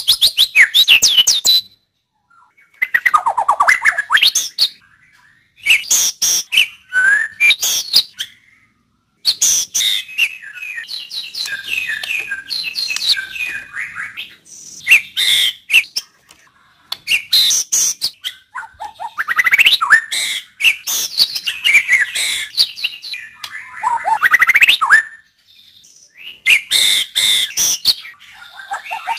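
White-rumped shama (murai batu) singing a series of loud, varied phrases of whistles and rapid chattering notes. Each phrase lasts one to a few seconds, and short pauses separate them.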